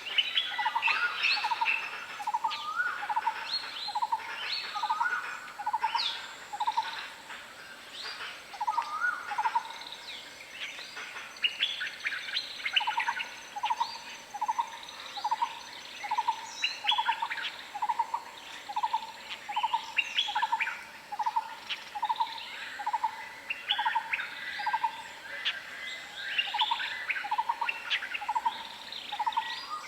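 Wild forest birds calling together. One bird repeats a short, low-pitched note a little more than once a second, pausing briefly a few times, while other birds chirp and twitter higher above it.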